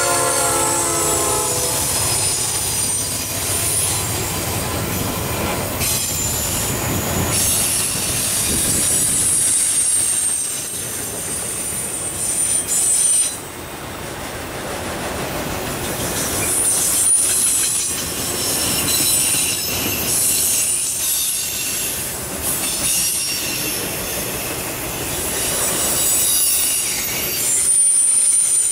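A freight train passing close by. Its horn ends about a second in, and the EMD SD60 and GE Dash 9-40CW diesel locomotives run past. After them comes a long string of autorack cars, with wheels clattering over the rail joints and high-pitched wheel squeal coming and going.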